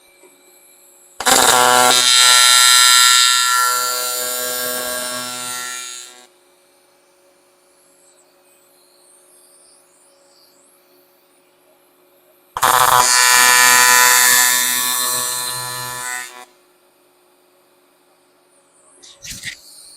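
AC TIG welding arc on a 6061 aluminium end cap and intake-runner tube, buzzing in two bursts of about five and four seconds. Each burst starts loud and tapers off.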